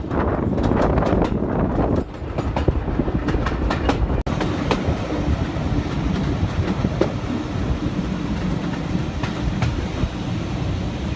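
Heritage railway train running, a steady rumble with the wheels clicking over the rail joints, a little quieter from about two seconds in.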